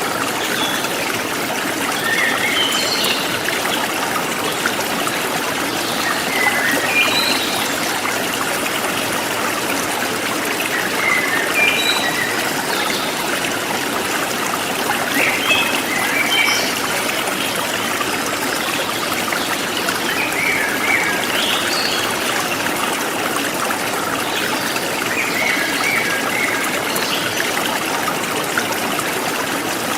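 A forest stream flowing steadily, with short bird chirps coming in every few seconds over the rush of water.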